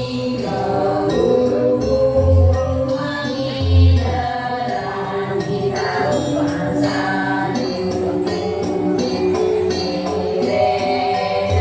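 Balinese Janger music: a group singing in unison over percussion accompaniment, with low thuds about two and four seconds in.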